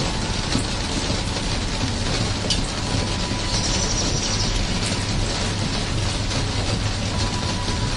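Steady rain: an even wash of patter with many small, sharper drip ticks scattered through it.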